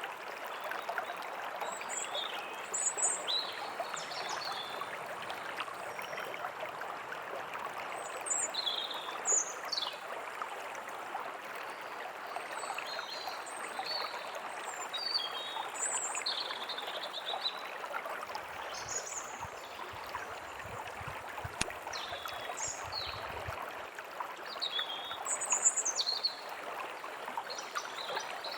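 Forest stream running steadily, with small birds chirping in short, scattered calls over it.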